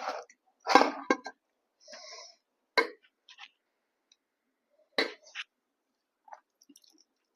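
Close-miked eating sounds of a person chewing a meat curry with rice, in a few sharp wet smacks and clicks of the mouth spaced a second or two apart, with quiet gaps between.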